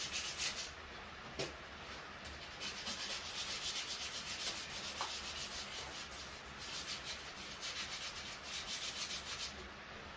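Sandpaper rubbed by hand over a motorcycle frame's painted steel to key it for repainting, in quick back-and-forth strokes. The strokes pause briefly a few times and stop shortly before the end.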